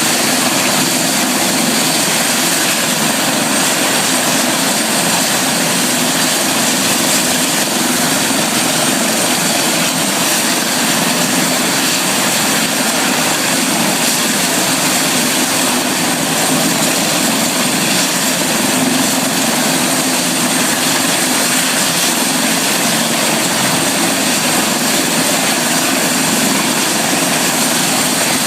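Helicopter running: a loud, steady drone of turbine and rotor with a high whine over it, unchanging throughout.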